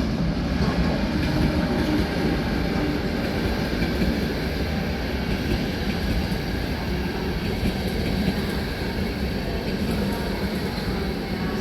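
A rail vehicle running along the track, a steady rumble with no marked changes.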